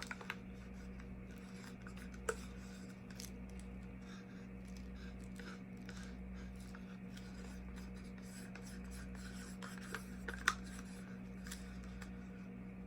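Light scratching and a few sharp clicks from plastic paint cups being handled while acrylic paint is poured, over a steady low electrical hum. The clearest clicks come about two seconds in and about ten and a half seconds in.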